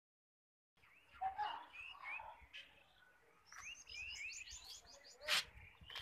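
Birds chirping, a run of many short rising chirps, with one sharp click a little after five seconds in.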